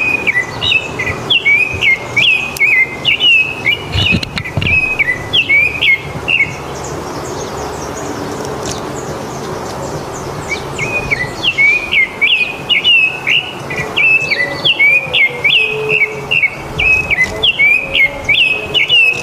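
A small songbird singing a fast run of repeated rising-and-falling chirps, two bouts with a pause of about four seconds between them, when only fainter, higher chirps are heard.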